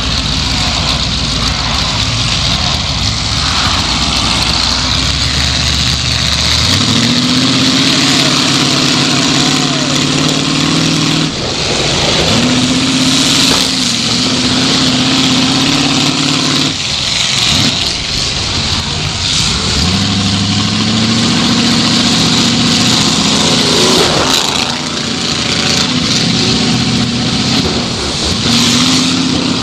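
Ford 351M V8 of a 1979 Ford Thunderbird demolition derby car, heard from inside the gutted cabin, revving up and dropping back several times as the car accelerates around the dirt arena, with a few sudden bangs.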